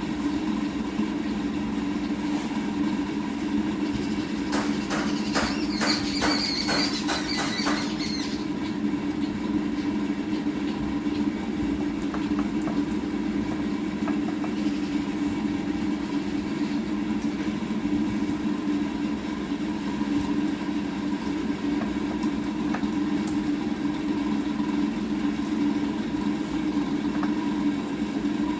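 A steady engine-like drone runs throughout. About five seconds in, a quick run of clicks with a high ringing tone sounds over it for a few seconds.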